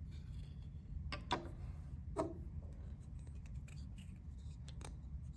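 Scattered faint clicks and taps of small hard figures being handled, over a low steady hum.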